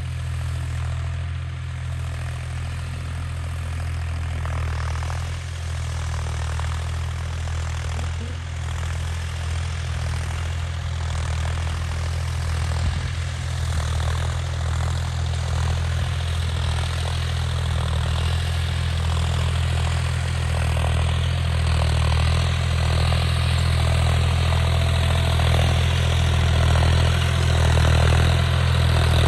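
Tractor engine running steadily, a constant low drone that grows slightly louder near the end.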